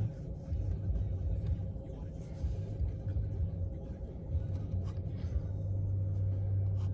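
A low, uneven rumble with a faint steady hum, heard from inside a car.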